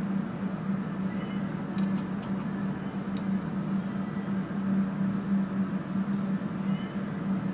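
Fume-extraction fans running with a steady drone and hum, and a few light clicks about two to three seconds in.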